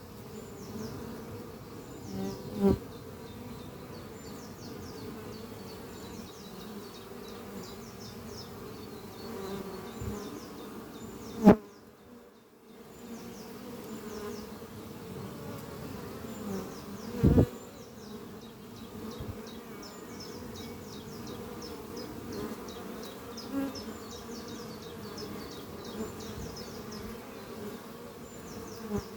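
Honeybee colony buzzing at the hive entrance: a steady, dense hum of many workers flying in and out. A few sudden loud swells stand out, the loudest about eleven seconds in.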